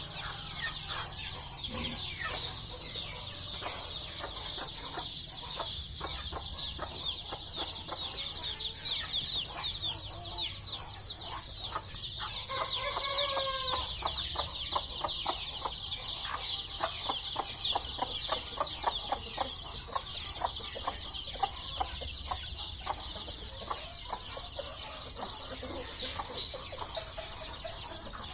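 Chickens clucking and calling, with one louder drawn-out call about halfway through, over a steady high-pitched chirring.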